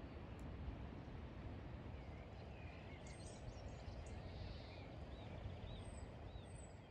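Birds calling over a steady rushing background noise: a run of short chirping notes starting about two seconds in, and a few high, thin, falling whistles.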